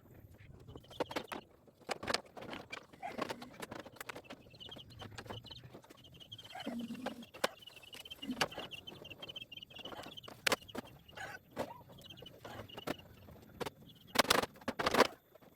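Irregular knocks and clatter of hand building work on a goat pen roof, loudest near the end. A steady high tone runs through the middle.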